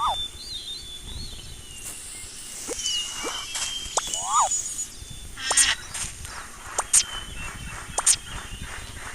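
Birds chirping and whistling: a string of short, high calls and whistles, with a few sharper, louder calls in the second half.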